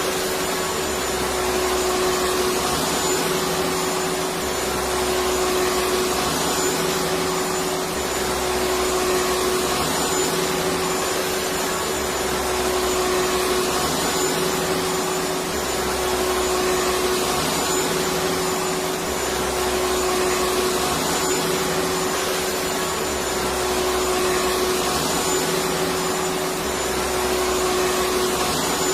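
Electric vacuum cleaner running steadily: a continuous rush of air with a steady motor hum. A low rumble swells and fades every few seconds.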